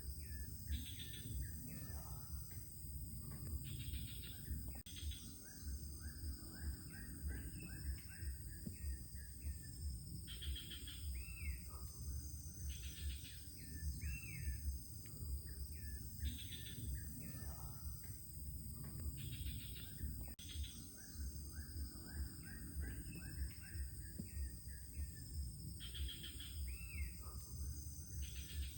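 Forest ambience: birds calling in short repeated phrases every few seconds over a steady high insect drone, with a low fluttering rumble underneath.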